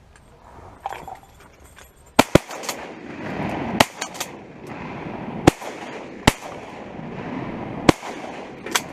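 Volley of shotgun blasts at ducks, about seven loud shots spread over some six seconds, the first two in quick succession, with rumbling echo between shots.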